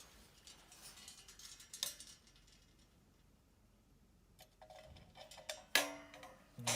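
Small clicks and light scrapes as the cover of a convection oven's halogen lamp and its fittings are handled and fitted back on. Near the end come two sharp knocks, the first ringing briefly.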